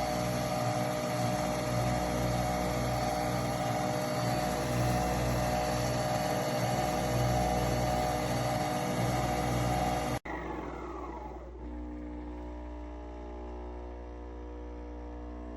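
Nespresso Vertuo Pop+ coffee machine brewing: a loud, steady whir of the spinning capsule and pump. After about ten seconds it cuts off abruptly, then a whine falls in pitch as the motor winds down, followed by a quieter steady hum.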